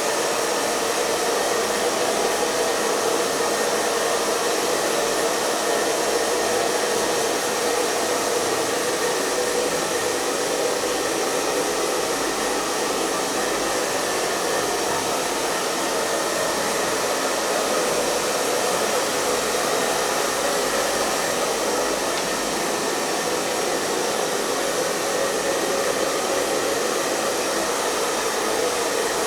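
Electric hair dryer running continuously at a steady speed: an even, unchanging blowing hiss with a low hum near its bottom end.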